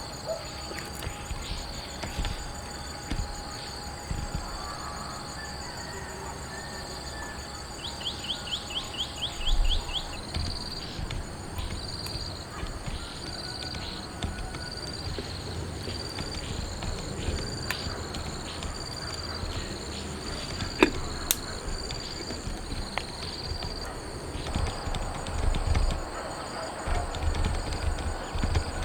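Outdoor nature ambience: a high chirp repeats a little faster than once a second over a steady background, with a quick run of rising chirps about eight seconds in.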